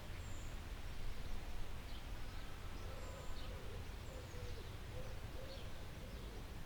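Forest ambience: scattered short, high bird chirps, with a lower-pitched drawn-out bird call in the middle, over a steady low background rumble.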